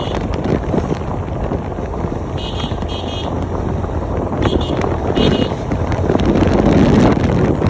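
Steady road and wind noise of a moving motorcycle, with wind buffeting the microphone. Four short high horn beeps, in two pairs, sound in the middle.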